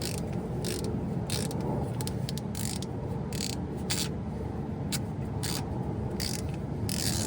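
Hand ratchet wrench clicking in short strokes, about one stroke every half second to second at an uneven pace, as a bolt on the stock exhaust manifold is worked loose. A steady low hum runs underneath.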